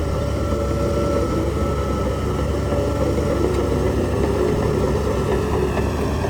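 Heavy diesel earthmoving machinery running steadily: a continuous low engine drone with a faint high tone above it.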